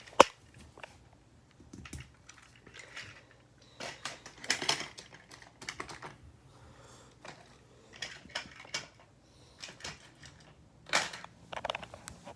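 Plastic toy trains and track pieces being handled, with irregular clicks, taps and rattles and a sharp click just after the start.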